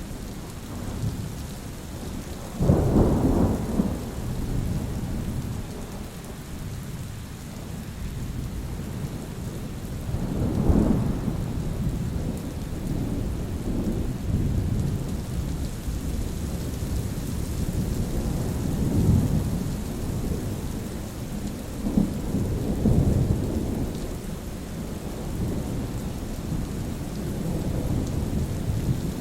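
Steady rain with rolling thunder: a sharp, loud rumble about three seconds in, another about eleven seconds in, and softer rumbles later on.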